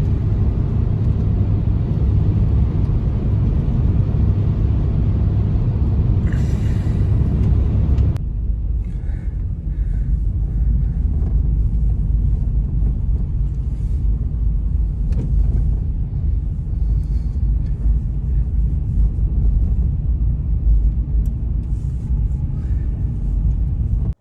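Strong blizzard wind blowing, a loud steady low rumble. About eight seconds in it changes abruptly, losing most of its hiss and leaving the deep rumble.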